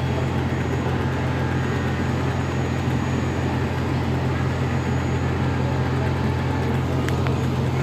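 Fire truck engine idling: a steady low drone with no change in pitch or level.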